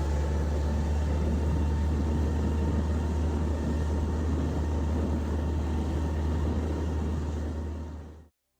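Suzuki outboard motor running steadily, a deep even rumble with a faint steady tone, cut off suddenly near the end.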